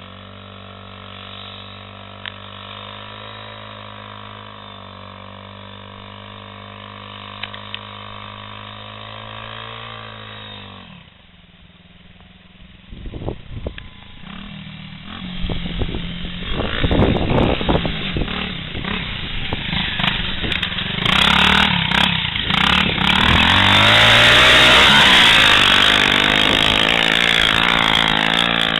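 Small off-road engine idling steadily, then, after a brief dip in level about eleven seconds in, revving up and running hard, much louder for the rest of the time.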